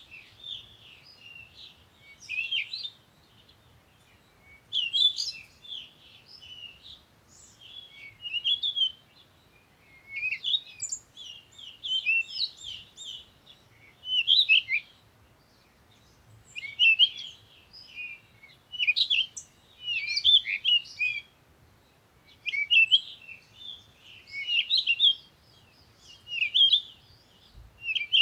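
Songbirds chirping: short phrases of quick, high chirps repeating every second or two, with brief pauses between them.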